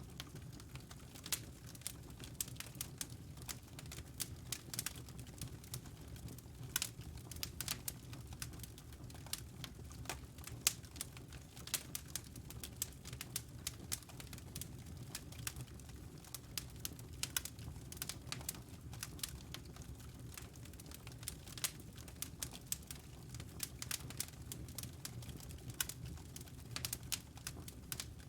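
Wood fire crackling: irregular sharp pops and snaps, many each second, over a steady low rumble of the burning fire.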